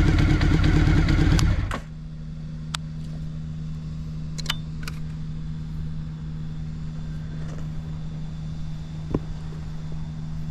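Honda CBX750F's inline-four running through a short Yoshimura Cyclone four-into-one exhaust, then switched off abruptly just under two seconds in. After it stops, a steady low hum remains, with a few sharp clicks.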